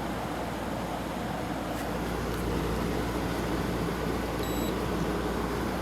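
Kenmore 8,000 BTU room air conditioner (WCI-built) running on cool: a steady rush of fan air over a low hum. About four and a half seconds in, its electronic controls give one short high beep.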